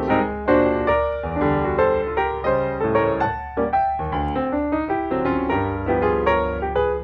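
Background piano music, a stream of quick notes over a sustained low bass.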